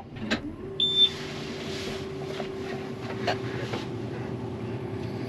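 Combine being switched back on in the cab: a click, a short high beep about a second in, then a steady hum with a low steady tone as the machine's systems run.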